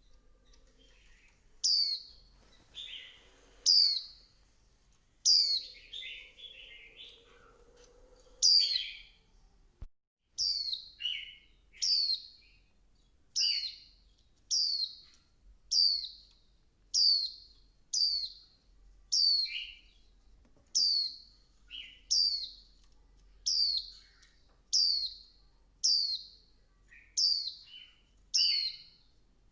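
Female white-eye calling: short, high, falling chirps repeated about once a second, some followed by a lower second note. This is the call used to rouse a male into song. There is a brief cut about ten seconds in, and after it the calls come at a very even pace.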